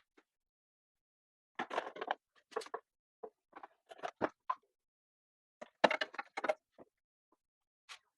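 A 7mm hand tool clicking and knocking against metal while loosening a hose clamp deep in the engine bay, in three short clusters of clicks with pauses between.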